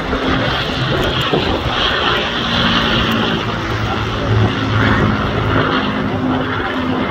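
Avro Lancaster bomber flying past, its four Rolls-Royce Merlin V12 piston engines running in a steady low drone.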